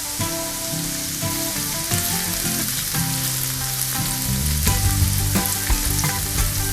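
Ingredients frying in hot oil in a pan, a steady sizzle with scattered clicks and scrapes from stirring that get busier after about four seconds.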